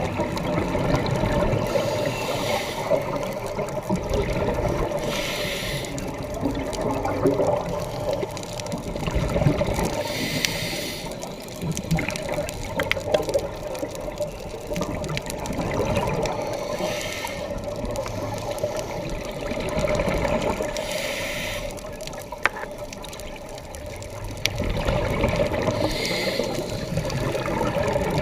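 A scuba diver breathing through a regulator underwater: exhaled bubbles burst out about six times, a few seconds apart, over a steady low rumble of water on the housed camera.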